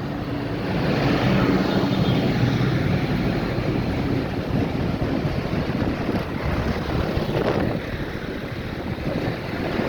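Tractor engines running as tractors drive past in a procession, loudest from about one to four seconds in, with wind noise on the microphone.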